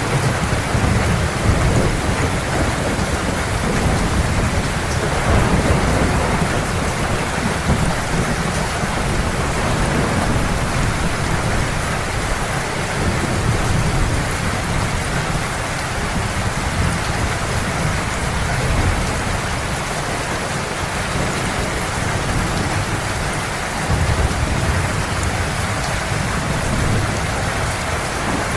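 Heavy rain falling in a steady hiss, with low thunder rumbling that swells and fades several times, most strongly near the start and again about 24 seconds in.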